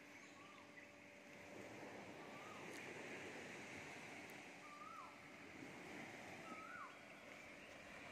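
A bird calling faintly: four short whistles about two seconds apart, each held briefly and then dropping sharply in pitch, over a steady low hiss.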